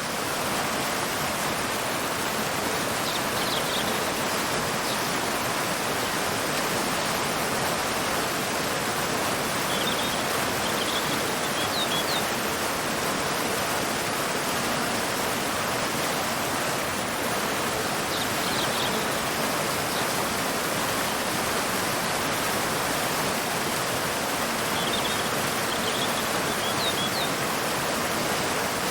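Waterfall pouring into a river: a steady, even rush of water. Short high bird chirps come in small clusters every several seconds.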